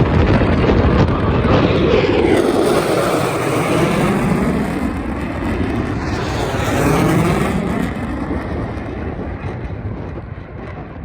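Aircraft flying past: a loud, continuous rushing engine noise that slowly fades over the last few seconds.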